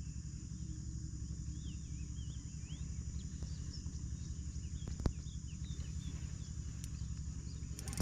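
Riverside outdoor ambience: many short bird chirps over a steady high insect drone and a constant low rumble, with one sharp click about five seconds in.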